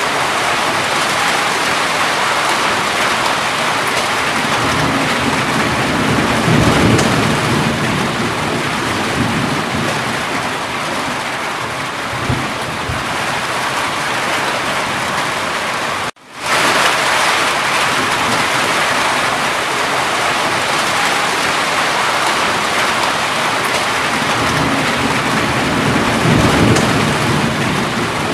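Steady heavy rain with low rolling thunder swelling up twice. The sound cuts out for a moment about sixteen seconds in and fades straight back, the join of a looped recording.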